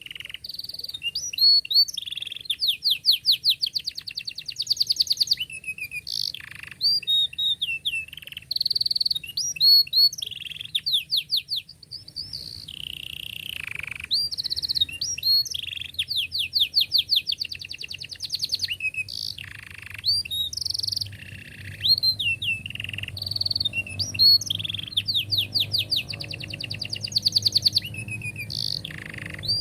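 Canary singing continuously: long, fast rolling trills of rapidly repeated notes broken by short whistled chirps and swooping phrases.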